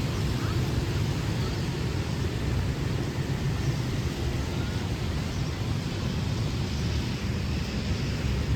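Steady city ambience in the rain: a low, constant traffic rumble under an even hiss of falling rain.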